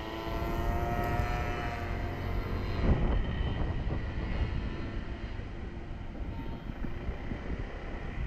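Honda 125cc motorcycle engine running while riding, its pitch rising slightly over the first two seconds, mixed with wind and road rumble; a short thump about three seconds in.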